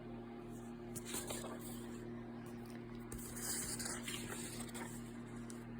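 Steady low electrical hum with faint rustling and a few small clicks over it.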